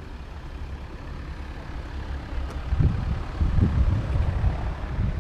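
Wind buffeting the microphone: an uneven low rumble that grows gustier and louder about three seconds in.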